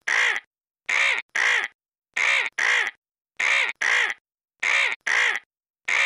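Harsh bird calls in quick pairs, each pair about a second and a quarter after the last, in an even repeating rhythm, like a looped sound effect.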